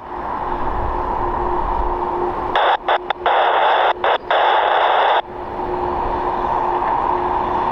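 Airband radio hissing with static between air-traffic-control transmissions, with a faint steady tone. About a third of the way in, a louder burst of radio hiss lasts about two and a half seconds, cutting out several times, like a transmission keyed with no speech.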